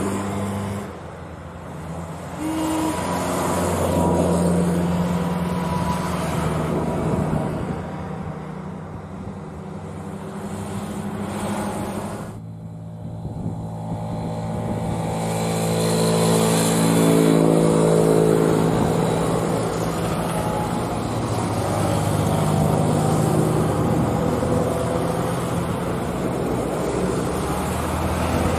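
Engines of old Eastern Bloc cars running and moving about, rising and falling in loudness as vehicles come and go.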